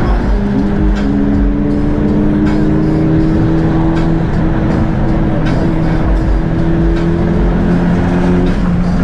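Honda Civic Si engine pulling under acceleration on the highway, its pitch climbing slowly and steadily over several seconds.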